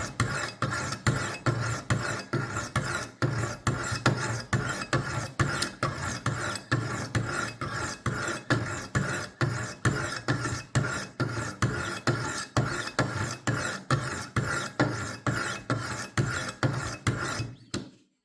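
Sharpening stones of a Wicked Edge WE60 guided knife sharpener rasping along a dull steel kitchen knife in quick alternating strokes, about two a second, which stop abruptly near the end. This is the sharpening pass after a burr has been raised on the edge.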